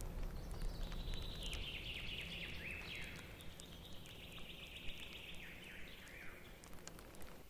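Woodland ambience: a songbird sings a long run of high, quick down-slurred notes over a low rumble of wind, with scattered small ticks of water drops falling into a puddle.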